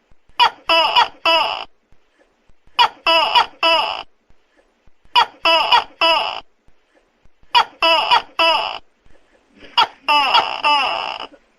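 Tokay gecko calling: groups of three short, loud, pitched calls, one group about every two and a half seconds, five times.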